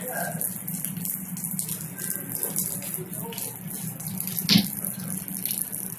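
Steady rain falling, many small drop impacts with a hiss. One louder sharp knock comes about two-thirds of the way through.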